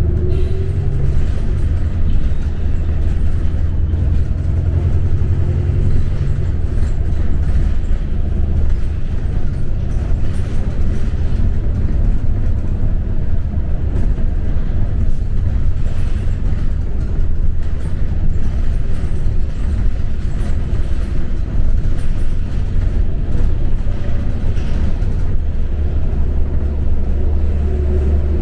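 New Flyer XD40 diesel bus running on the road, heard from inside: a steady low engine drone under road and body noise. The engine note shifts about six seconds in and swells again near the end.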